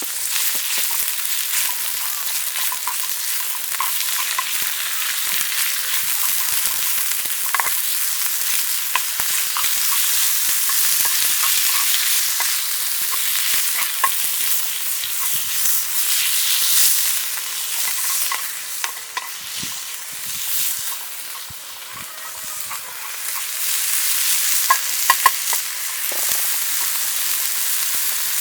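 Food sizzling in a frying pan, with scattered small clicks of a utensil stirring it.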